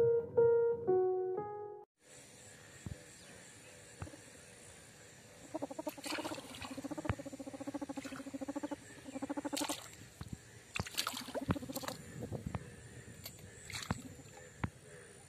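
A short piano-like music jingle ends about two seconds in. Then frogs call in rapid pulsing croaks: one long run of about four seconds from around the middle, shorter ones after it, and scattered clicks.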